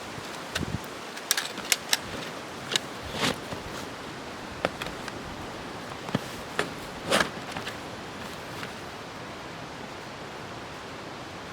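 Steady outdoor hiss of wind and rain, with scattered short clicks and knocks through it, the loudest a cluster about a second in and one near the middle.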